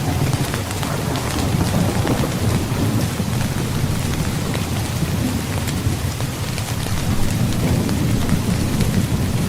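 Heavy rain falling steadily, with many fine drop patters and a low rolling rumble of thunder underneath that swells near the start and again near the end.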